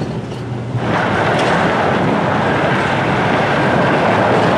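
4x4 truck driving off-road on desert dirt: a low engine hum, then a loud steady rush of tyre and wind noise that comes up about a second in.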